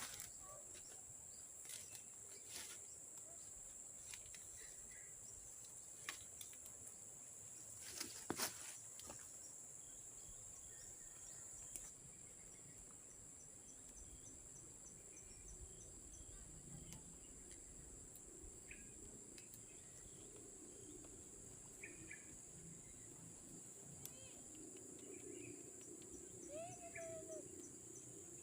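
Steady high insect trilling, like crickets, with scattered short bird chirps and a rising-falling bird call near the end. A few sharp clicks stand out in the first third.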